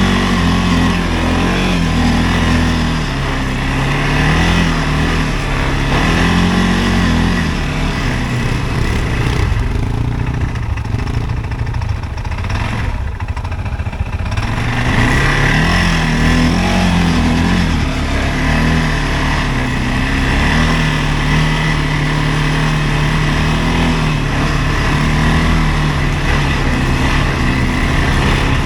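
CFMoto ATV engine running under changing throttle, its note rising and falling again and again, easing off for a few seconds about a third of the way in.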